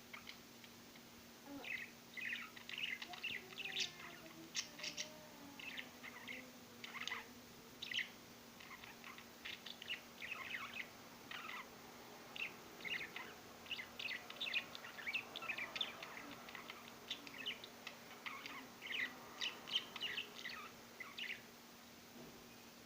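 Karawan birds (thick-knees) calling in many short, quick chirps, one after another and overlapping, over a steady faint low hum.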